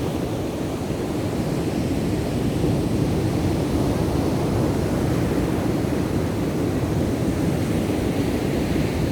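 Ocean surf breaking and washing up the beach: a steady low rushing that swells a little about two and a half seconds in.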